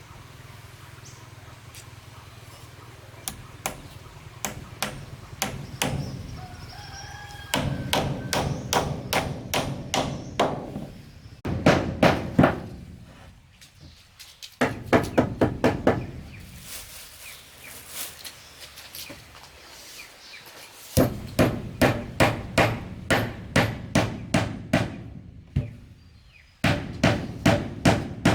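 Hammer blows on wooden planks: runs of sharp, regular strikes, about two a second, in several short sequences that start and stop abruptly. A faint bird call comes once, about five seconds in.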